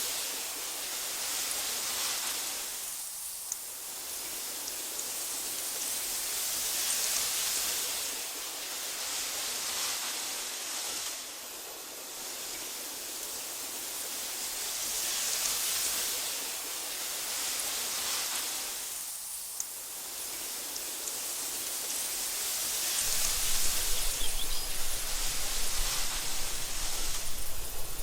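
Wind blowing through tall meadow grass: a soft hissing rush that swells and eases in slow gusts every few seconds. About 23 seconds in, a deeper low rumble joins and the gusts grow louder.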